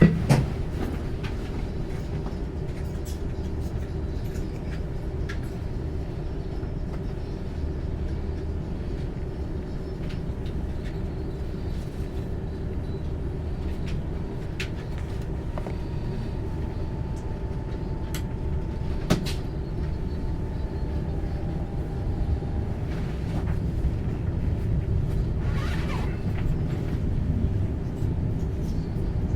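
Steady low rumble of a moving train, with scattered light clicks and rattles and one sharper knock about two-thirds of the way through.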